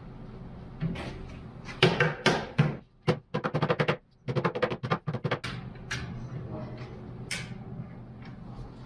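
A run of sharp knocks and rapid clattering ticks, in bursts about two seconds in and from about three to five and a half seconds, over a steady low hum.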